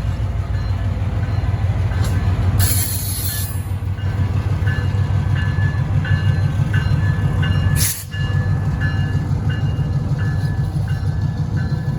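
EMD MP15DC switcher locomotive's diesel engine rumbling steadily as the train moves through the crossing, while a crossing bell rings about twice a second. A brief hiss comes about three seconds in, and a sharp knock about two-thirds of the way through.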